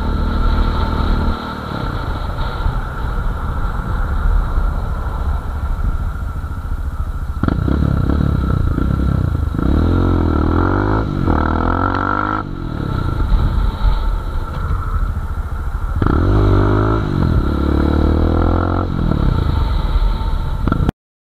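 Kawasaki Z1000 inline-four motorcycle engine under way with wind noise, accelerating hard twice, with the pitch climbing and dropping through several gear changes each time. The sound cuts off abruptly just before the end.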